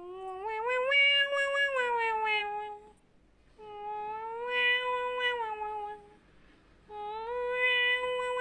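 Cat giving three long, drawn-out meows with short pauses between, each rising a little, holding, then dropping at the end; the third begins near the end.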